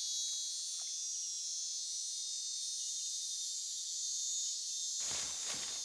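Rainforest insect chorus, a steady high-pitched buzzing. Near the end comes a short burst of noise, under a second long.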